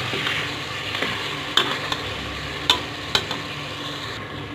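Chicken pieces frying and sizzling in ghee in a pot while a metal spoon stirs them. Three sharp clinks of the spoon against the pot come over the steady sizzle.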